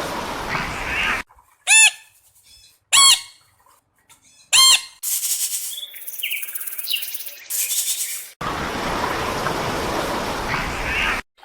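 Bird calls: three short calls about a second and a half apart, followed by a stretch of high chirping, set between spells of a steady rushing noise.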